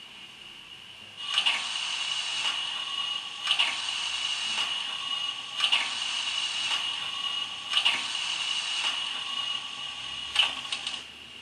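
Hornby 9F's DCC sound decoder playing steam-locomotive sounds through the model's small speaker: a steady hiss with a high whistle-like tone, and a sharp slow beat about every two seconds, each followed by a softer one. It starts about a second in and stops just before the end.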